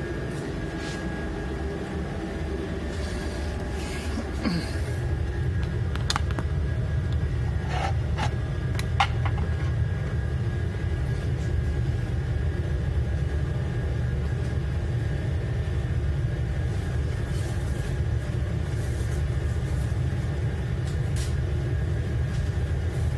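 Steady low rumble of a running engine or vehicle, a little louder from about four and a half seconds in, with a few sharp clicks around the middle.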